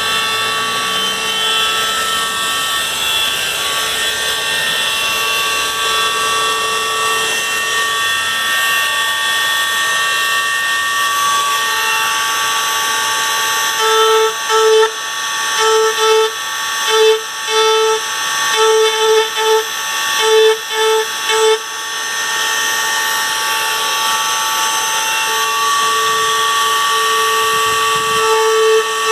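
High-speed electric engraving tool running with a steady whine as it cuts deep anti-theft marking characters into a motorcycle's metal. About halfway through, the whine breaks into a quick series of short stops and starts, then runs steadily again.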